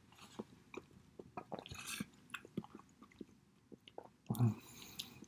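Close-up wet chewing and lip smacks of a mouthful of soft food (eggs in tomato pasta sauce with melted cheese), with many small irregular clicks. A short, louder low hum from the eater comes a little after four seconds in.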